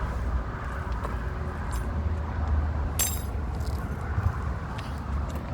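Light metallic taps and clicks, with one sharp, ringing clink about three seconds in, over a steady low rumble.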